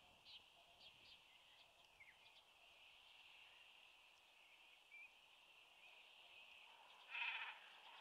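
Faint short chirps of birds over a steady high background. About seven seconds in there is one loud, rapidly pulsed, bleat-like bird call lasting about half a second.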